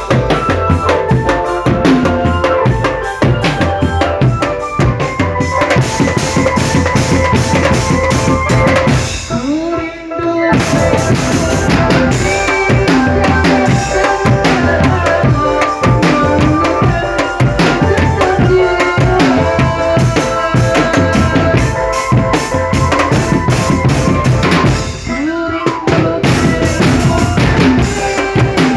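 Marching drum band playing loud, fast bass drum and snare patterns under a sustained melody, with short breaks about ten seconds in and again around twenty-five seconds.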